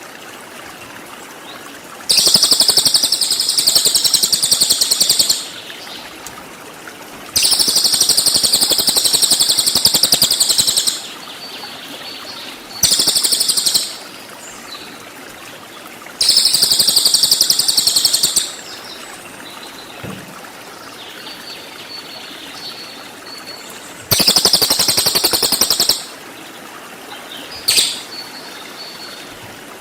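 A cililin singing its rapid 'tembakan' phrases: about six very high, fast trilling bursts of one to three seconds each, separated by short pauses, with a brief single note near the end.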